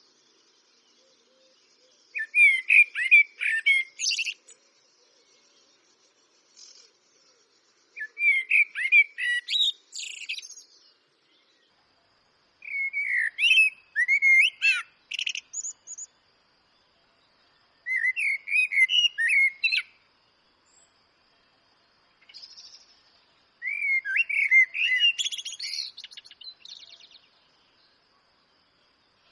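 Eurasian blackbird singing: five separate fluty, warbling phrases a few seconds apart, each ending in a higher, squeaky twitter.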